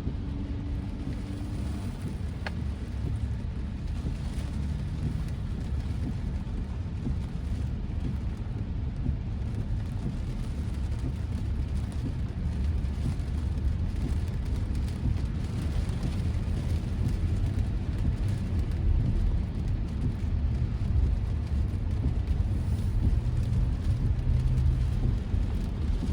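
Steady low rumble of tyres on a wet road and rain on the car body, heard inside the cabin of an electric Tesla Model Y driving in heavy rain. It grows a little louder in the second half.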